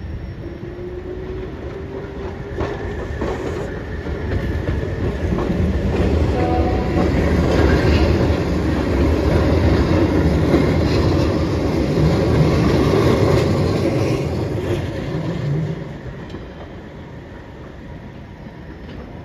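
A two-car Keihan Ishiyama-Sakamoto Line train passing close by on street-running track, wheels clacking over the rails. The sound builds from a few seconds in, is loudest in the middle as the cars go by, and fades away near the end.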